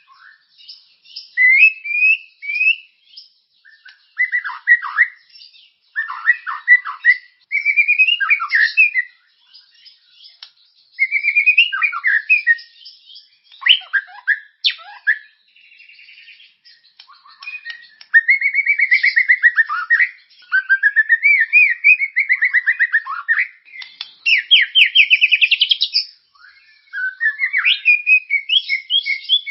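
Songbird song made of varied whistles, chatters and glides in short phrases with pauses between them, and longer rapid trilled phrases in the second half. It is a masteran tutor recording, played to caged white-rumped shamas to teach them new phrases.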